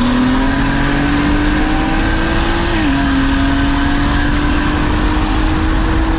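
Single-turbo BMW 135i's inline-six accelerating hard in a roll race, its pitch climbing steadily. The pitch drops briefly at an upshift about three seconds in, then climbs again.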